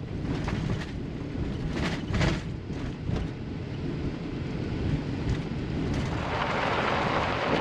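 Camper van driving slowly over a rough dirt road: a continuous low rumble of tyres and suspension, with several sharp knocks and rattles from bumps a couple of seconds in, and a louder hiss of tyres on the road surface from about six seconds in.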